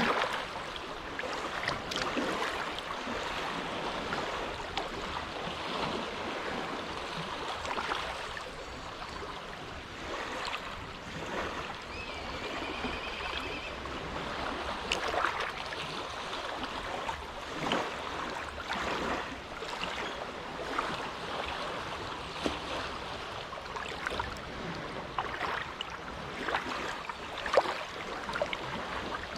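Small, gentle waves lapping at the shore of a calm inlet: a steady wash of water broken by irregular small splashes.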